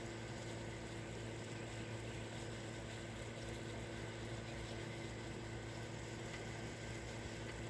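Steady background hiss with a low, even hum running under it, with no distinct bird calls or other events.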